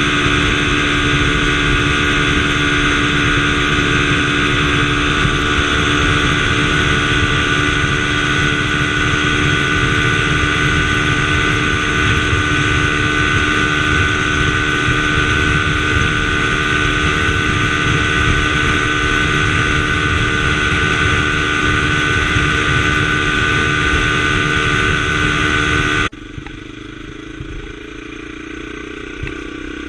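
Scrambler motorcycle engine running at a steady, unchanging speed, loud and constant, then cutting off abruptly about 26 seconds in to a quieter engine sound.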